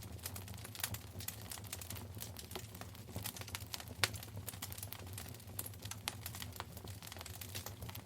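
Wood fire burning in a fireplace, crackling with dense, irregular snaps and one louder pop about four seconds in, over a steady low hum.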